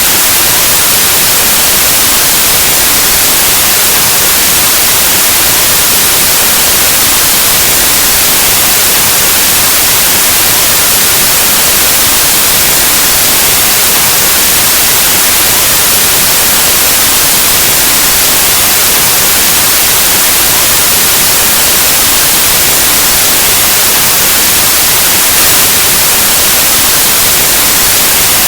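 Loud, steady white noise, a hiss like analog TV static with no change in level.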